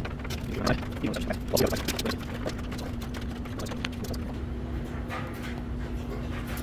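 Hand-tool work on wood: a quick string of short scrapes and knocks over the first few seconds, then sparser, over a steady low hum.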